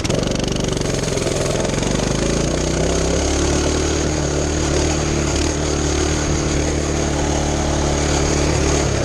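Mini bike's small engine, its governor removed, at full throttle on a top-speed run: the pitch climbs over the first few seconds, holds high and steady, then drops near the end as the throttle comes off.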